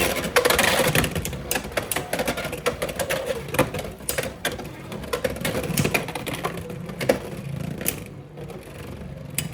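Beyblade X tops (Reaper Turbo against Impact Drake) spinning and clashing in a plastic stadium: a rattling stream of sharp plastic clacks and knocks. It thins out and gets quieter over the last second or two as the tops slow.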